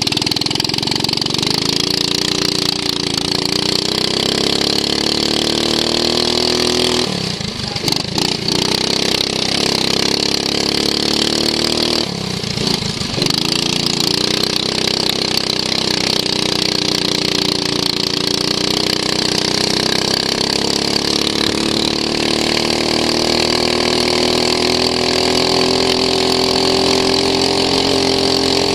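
Racing lawn mower's engine heard onboard, running hard around the circuit. Its pitch drops twice, once about a quarter of the way in and again near the middle, then climbs back as it accelerates, with a long rise in the second half.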